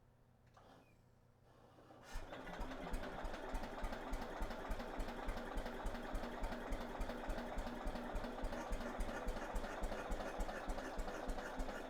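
1953 Economy Country Squire tractor's Briggs & Stratton engine catching about two seconds in after being turned over on battery power. It then runs steadily with an even, fast beat.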